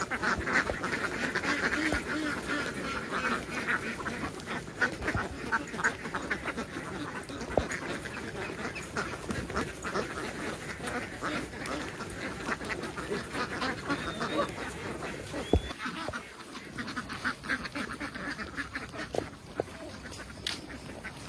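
A large flock of domestic ducks quacking all together in a dense, continuous din, busiest in the first few seconds and thinning out later, with many short clicks mixed in.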